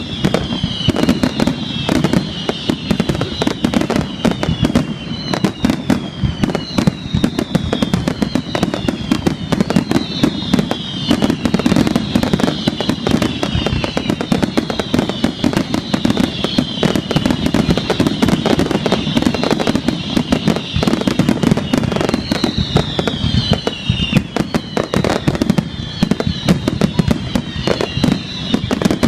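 Fireworks barrage: a dense, unbroken run of bangs and crackles, with high falling whistles recurring every second or two.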